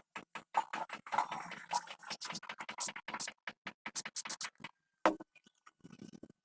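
Rapid, irregular clicks, taps and scrapes, like hand work on hard parts, pausing briefly near the end after one louder click.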